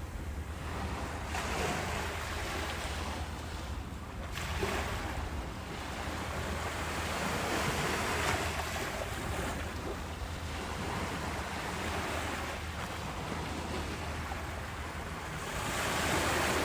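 Ocean waves breaking and washing ashore in slow swells, a new wave rising every few seconds over a steady low rumble of surf, with a loud swell near the end.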